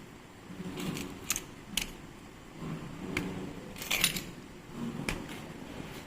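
Small metal parts and tools clinking and tapping as they are handled, with about four sharp clinks, the loudest about four seconds in, over softer handling noise.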